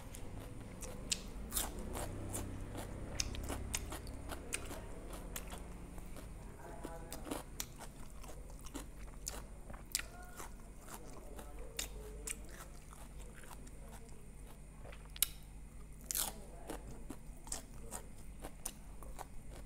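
Close-up eating sounds: crisp raw cabbage and vegetables crunched and chewed with soft steamed egg, giving irregular crunches and wet mouth clicks over a steady low hum.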